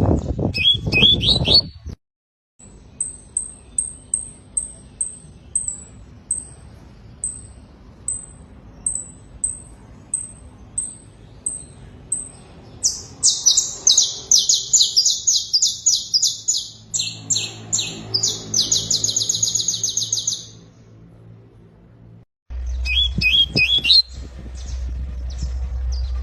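Domestic canary singing: a run of single high chirps, one or two a second, then a loud, fast rattling trill lasting several seconds.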